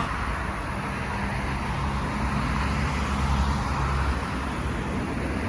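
Steady road traffic noise: a continuous low rumble and hiss from cars on a roadway.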